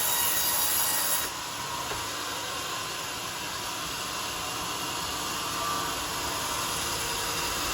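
Homemade sawmill's circular saw blade cutting a coconut-palm log with a loud, hissing noise that drops off suddenly about a second in as the cut ends. The saw then keeps running with a lower, steady sound.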